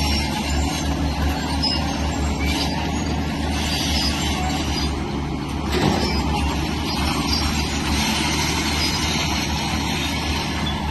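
Heavy earthmoving machinery's diesel engine running steadily under load, with a few short high metallic squeaks and one brief knock about six seconds in.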